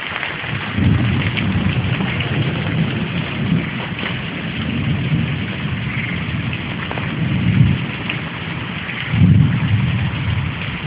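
Steady downpour of heavy rain hissing, with low rumbles of thunder swelling and fading several times, the loudest near the end.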